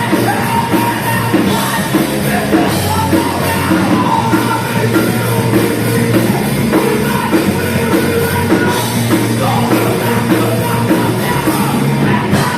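Live crossover thrash band playing fast: distorted guitars, bass and a driving drum beat, with shouted vocals.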